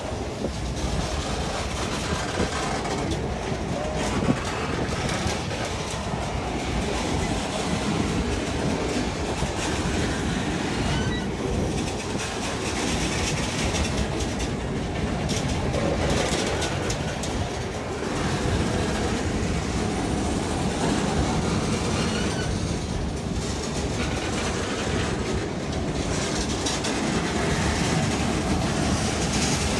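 Norfolk Southern freight train's steel-wheeled gondola cars rolling steadily past at close range, the wheels clicking over the rail joints.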